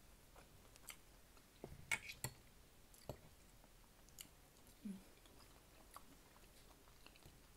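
A person chewing fried pork chop, quiet and close, with scattered short mouth clicks and smacks; a few louder ones come about two seconds in.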